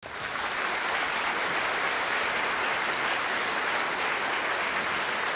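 Steady applause from an audience, a dense even clapping.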